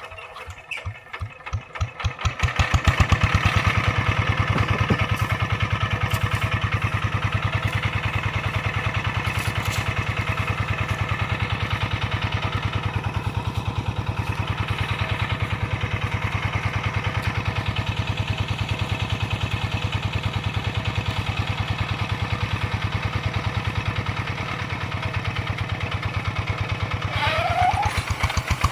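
Hand tractor's engine starting: slow, even firing pulses that pick up and build to a steady run within about three seconds, then keep running at a steady speed.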